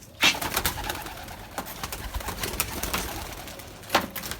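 Flock of domestic pigeons flapping their wings, a run of quick clattering flaps with a sharp loud clap about a quarter-second in and another near the end.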